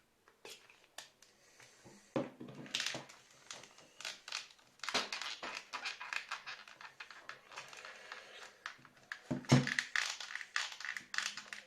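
Plastic headband and earcup mounts of SteelSeries Siberia V2 headphones creaking and crackling in irregular clicks as the headset is flexed by hand. The creak remains after silicone lubricant was sprayed into the mounts.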